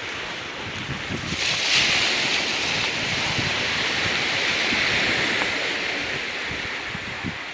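Ocean surf washing in over a rocky shore: a wave swells up about a second and a half in, hisses on, and eases off near the end. Wind buffets the microphone throughout.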